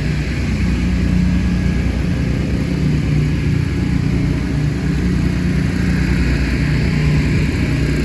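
A loud engine running steadily with a constant low drone.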